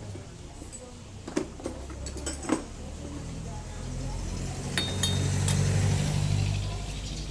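Metal hand tools clinking in a few scattered sharp clicks during scooter disassembly, over a low hum that swells about four seconds in and eases near the end.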